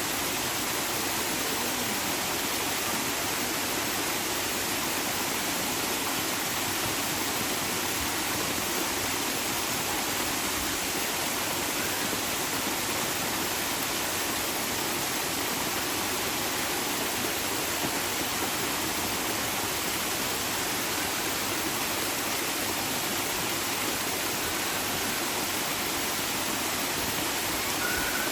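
Steady rushing water, like a stream or small waterfall: an even, unbroken hiss.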